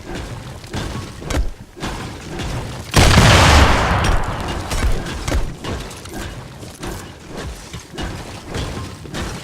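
Waterfall crashing, with irregular booms and cracking thumps like something being broken, and one much louder crash about three seconds in that fades over a second or so.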